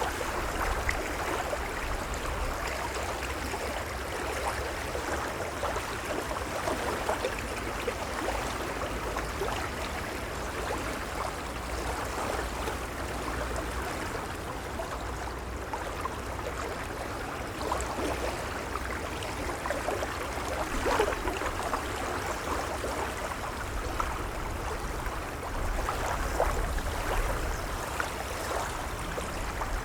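Gentle waves lapping: continuous splashing and trickling water that swells slightly a few times.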